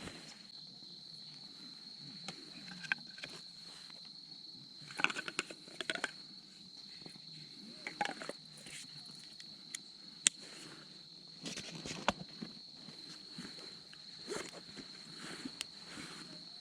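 A steady high-pitched chorus of night insects, crickets by the sound of it, with scattered clicks and short rustles of someone moving about and handling things, the sharpest click about ten seconds in.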